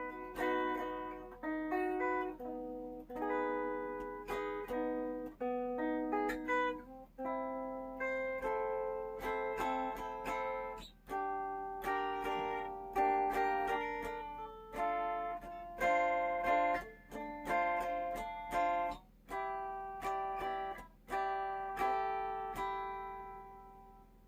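Flight Centurion solid-body electric tenor ukulele played with the pickup selector in the middle, both pickups on: chords and single notes picked about once a second, each ringing on with long sustain and fading before the next.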